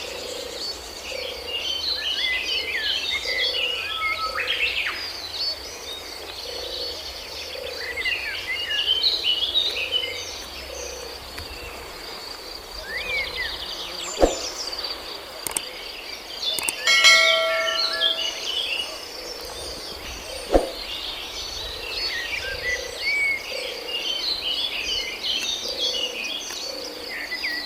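Forest ambience: many birds chirping and calling over a steady, high insect trill, with a low call repeating about once a second. Two sharp knocks stand out, about halfway through and again some six seconds later.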